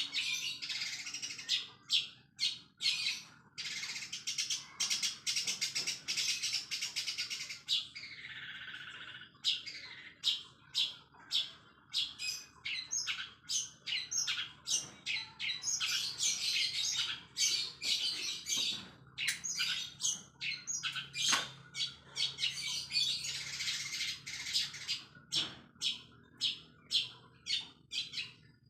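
Long-tailed shrike (cendet) singing fast in rapid runs of chattering, squawky notes, with mimicked Eurasian tree sparrow chirps worked into the song. The phrases come in quick bursts with brief pauses, and one falling whistle-like note about eight seconds in.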